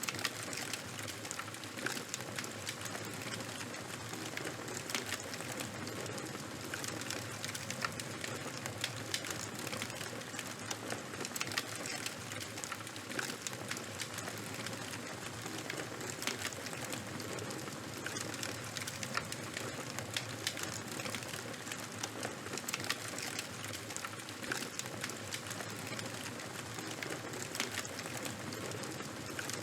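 Charcoal and wood fire burning with a steady hiss and a dense, continuous crackle of sharp pops and snaps.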